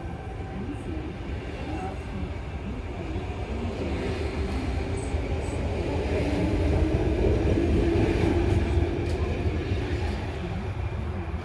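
Electric passenger train pulling into the station platform, its rumble building to a peak about seven seconds in and then easing as it slows.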